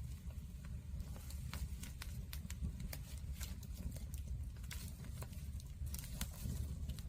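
Wood fire crackling, with irregular sharp pops and snaps several times a second over a low steady rumble.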